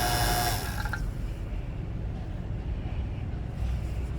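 7 CFM NAVAC vacuum pump running with a steady whine, then shut off about half a second in and winding down within a second, as the vacuum is isolated for a decay test. A low steady rumble remains afterwards.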